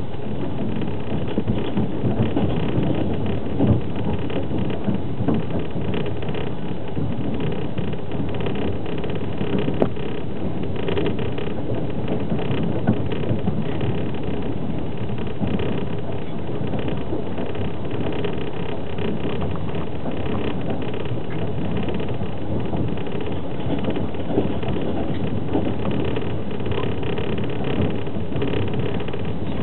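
Passenger train running at speed, heard from inside an open-plan sleeping carriage: a steady rumble of wheels on the rails, with a few brief knocks.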